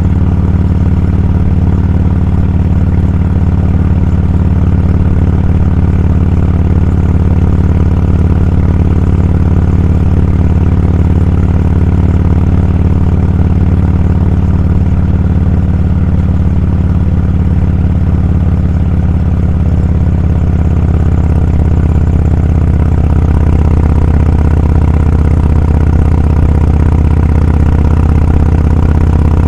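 Motorcycle engine running steadily, a low, even drone with no change in pitch.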